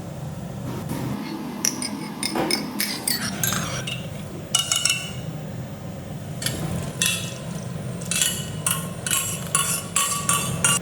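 Metal kitchen utensils and vessels clinking and knocking during cooking: a run of taps about two seconds in and a quicker cluster of ringing clinks near the end, over a steady low hum.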